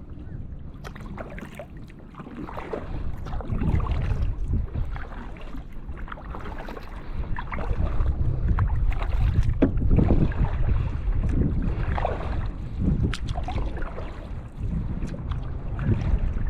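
Kayak paddle strokes splashing and dripping in the water in irregular surges, with wind buffeting the microphone as a steady low rumble.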